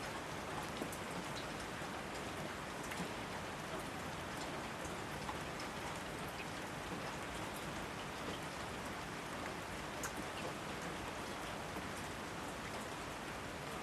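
Steady rain falling, an even hiss with individual drops ticking now and then on nearby surfaces.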